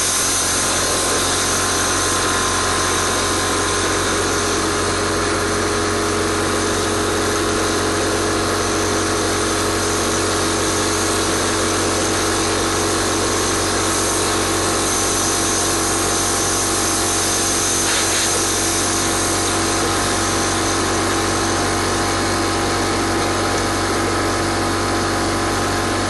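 Steady mechanical running of a compressed-air-driven rotary dryer vent cleaning tool working inside the vent duct, with the air compressor and the dryer's blower running on air fluff. One brief click comes about two-thirds of the way through.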